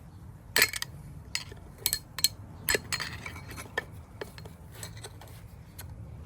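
Sharp metallic clinks and taps of hand tools against a steel wheel-bearing housing while a stuck bearing circlip is worked out. The loudest clink comes about half a second in, followed by a scattering of lighter clicks over the next few seconds.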